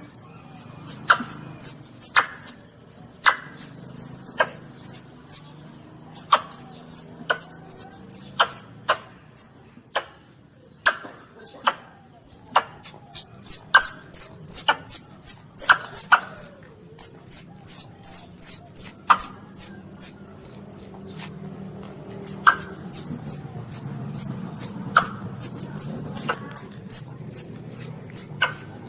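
Baby Asian palm civet (luwak) calling: rapid series of short, very high-pitched squeaks, several a second, in runs with brief pauses, mixed with sharper clicks about once a second.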